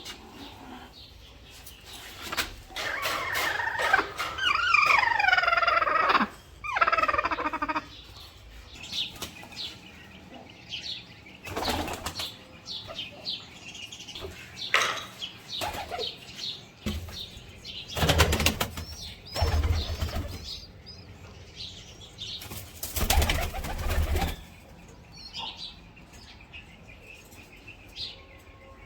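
Pet birds flapping their wings in several short bursts, about a dozen seconds in, again near eighteen to twenty seconds and near twenty-three seconds, with scattered chirps and a longer stretch of calls a few seconds in.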